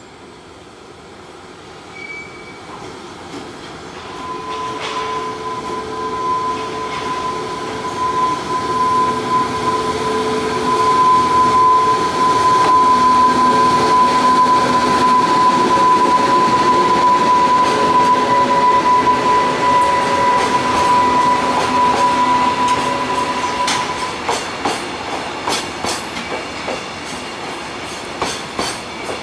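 A JR Freight EH500 electric locomotive hauls a container freight train past, growing steadily louder as it approaches. A steady high tone carries through its passing, then the container wagons roll by with a run of rhythmic clicks from wheels crossing rail joints.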